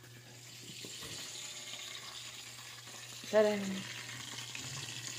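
Chicken necks frying in a pan of hot oil: a steady sizzling hiss that grows louder over the first second and then holds.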